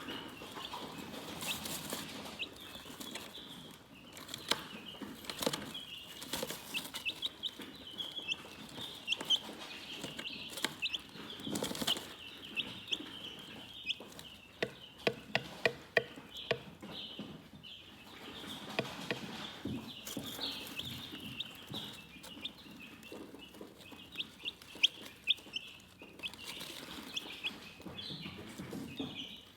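Chickens chirping and clucking: a steady chorus of many short, high peeps overlaid with low clucks. A quick run of clucks comes about halfway through, with scattered light taps and clicks throughout.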